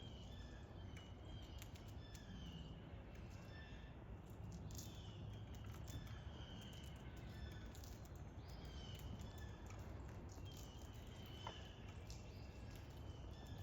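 Faint outdoor birdsong: small birds chirping over and over with short, high calls, over a steady low rumble.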